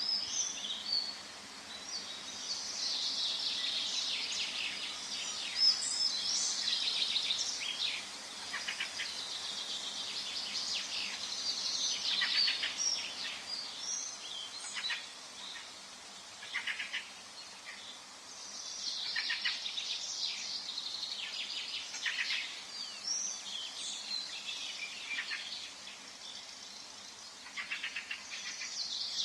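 Forest songbirds singing: several birds in quick, high chirping phrases that come in bouts every few seconds, over a faint steady background hiss.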